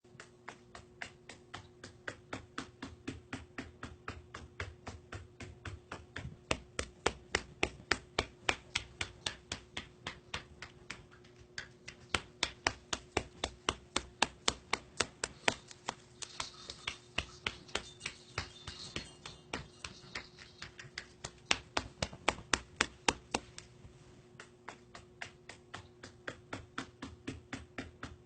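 Sharp rhythmic clicking, about four clicks a second, growing louder in stretches and then softer again, over a steady low hum.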